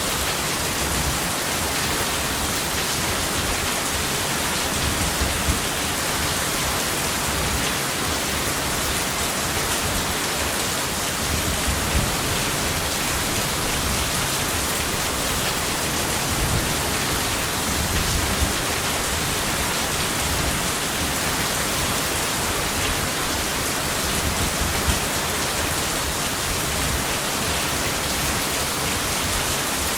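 Steady rain, an even hiss with an uneven low rumble underneath.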